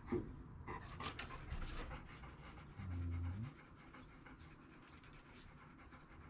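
Dog panting, with a short low hum for about half a second around three seconds in.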